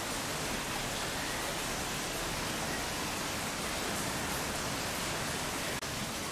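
Torrential typhoon rain falling steadily, a dense, even hiss with no let-up, broken only by a brief drop-out about six seconds in.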